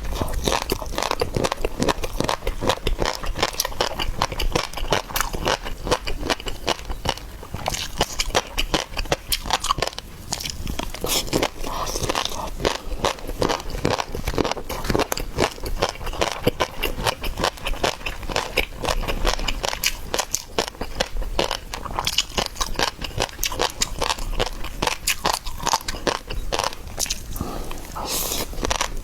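Close-miked mukbang eating: seafood being bitten and chewed, heard as a dense, continuous run of quick small clicks.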